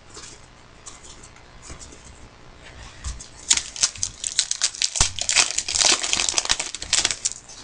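Trading-card pack wrappers crinkling and tearing as packs are opened, quiet at first and then a dense run of sharp crackles through the second half.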